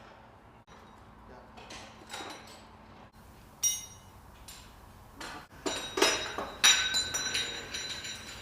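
Metal hand tools clinking and clanking against each other and against metal. There is one sharp clink about three and a half seconds in, then a run of ringing clanks over the last three seconds.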